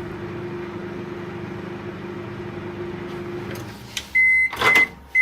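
Microwave oven running with a steady hum during a 30-second drying burst, shutting off about three and a half seconds in, then beeping a few times to signal the end of the cycle.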